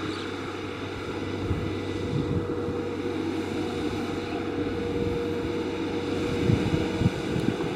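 Kubota DC70 Plus combine harvester's diesel engine running steadily, a constant low drone with a steady whine above it.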